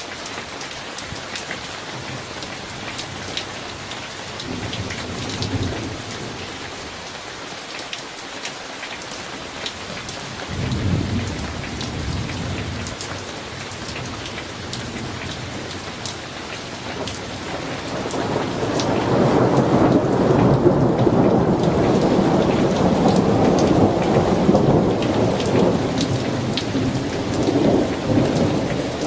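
Summer thunderstorm: steady rain with scattered drop ticks. Thunder rumbles briefly twice, then a long, louder rolling rumble starts about two-thirds of the way in and dies away near the end.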